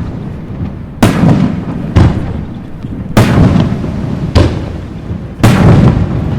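Aerial fireworks shells bursting: five sharp booms about a second apart, each followed by a long echoing decay.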